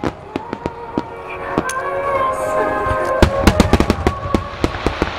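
Aerial firework shells bursting in quick succession, sharp reports and crackles coming thickly about three seconds in, over music with long held notes.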